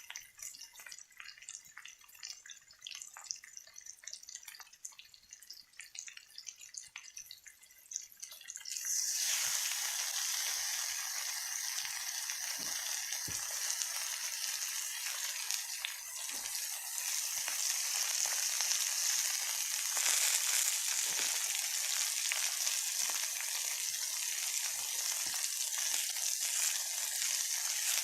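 Food sizzling and frying in a hot pan. It starts suddenly about nine seconds in and runs on as a steady hiss, after faint scattered drips and ticks.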